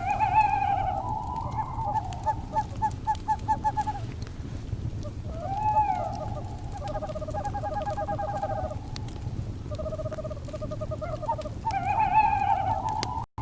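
Owl calls mixed over a crackling fire: a series of pitched calls, some broken into rapid trills, with a rising-and-falling note near the middle. Beneath them runs the fire's steady low rumble with scattered small crackles.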